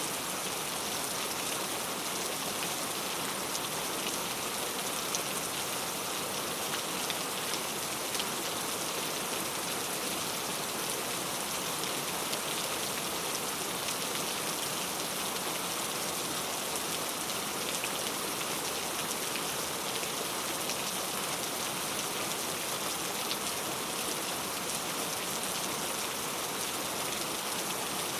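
Heavy rain falling steadily: an even, constant hiss with a few louder drop hits standing out now and then.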